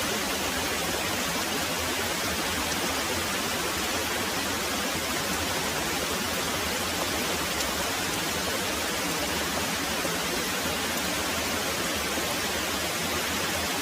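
Very heavy rain falling steadily: an even, unbroken hiss of rainfall with no thunder.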